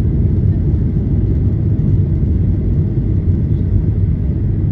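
Boeing 737-800 airliner in flight, a steady low rumble of engines and airflow as heard inside the cabin.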